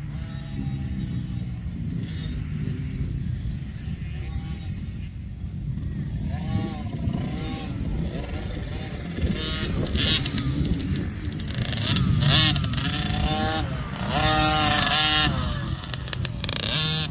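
KTM 50 motocross bike's two-stroke engine revving up and dropping back again and again, getting louder and loudest near the end. Its silencer needs repacking, which makes it sound horrible.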